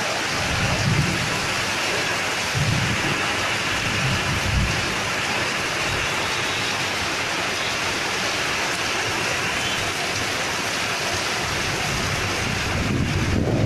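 Heavy rain pouring in a strong wind: a steady, dense hiss. Low rumbles swell through the first five seconds and again near the end, when the hiss briefly thins.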